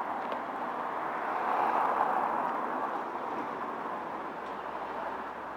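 Street traffic noise, swelling as a vehicle passes about two seconds in, then easing off.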